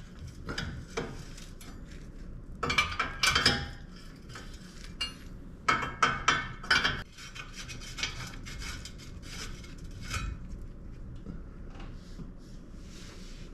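Metal tools and parts clinking and clattering in irregular bursts as they are handled, with two louder clusters of clanks and scattered single ticks between.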